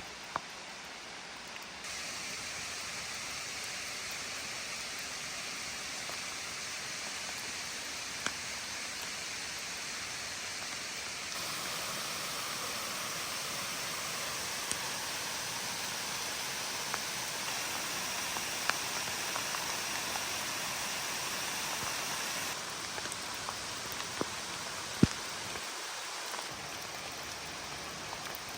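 Steady rainfall hissing, its level stepping up and down a few times, with a few sharp drips or taps, the loudest near the end.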